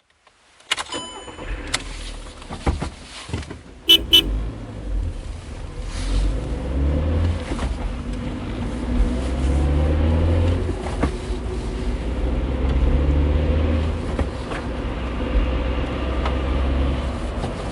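Car engine running, its pitch rising and falling as it revs. There is a short double horn toot about four seconds in.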